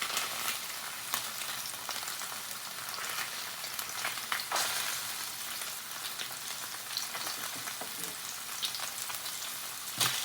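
Food frying in a pan: a steady sizzle with small crackles and pops scattered through it.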